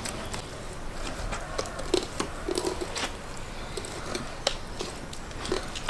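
Scattered light clicks and taps at an irregular pace, over a steady background hiss.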